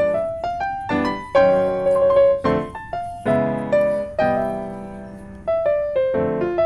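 Background music: a light piano melody over struck chords, a new note or chord about once a second.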